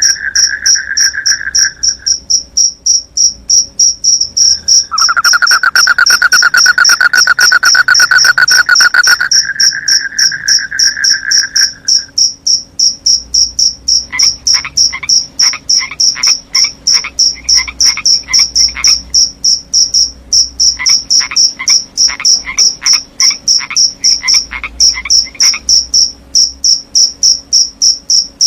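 Crickets chirping steadily in rapid high pulses, with frogs calling over them: a long trill that stops and restarts in the first half, then two runs of quick repeated calls.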